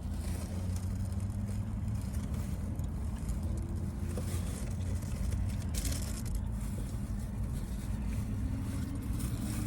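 A steady low rumble, with a few brief faint clicks around the middle.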